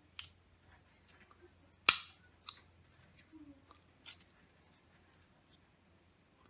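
Hand work on a fluorescent light fixture: scattered light clicks and ticks, with one loud sharp snap about two seconds in and a smaller one just after.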